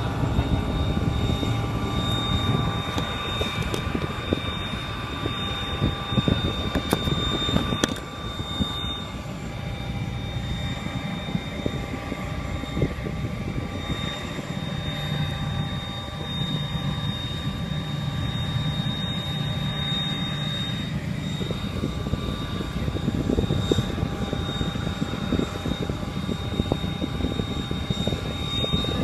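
Cessna 206 single-engine plane's piston engine and propeller running steadily, with a thin steady whine over the low engine noise.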